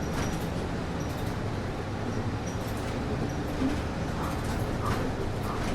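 Steady low hum and rushing of a city bus cabin's air conditioning, with the bus's rumble underneath. A few faint clicks and rattles come through in the second half.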